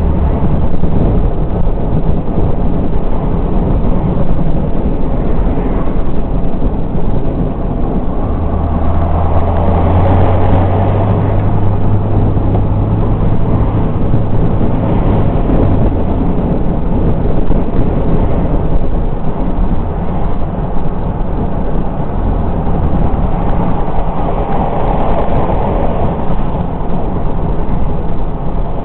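A car driving under steady load: engine hum with dense rushing road and wind noise. The engine note steps up about eight seconds in and settles back lower about sixteen seconds in.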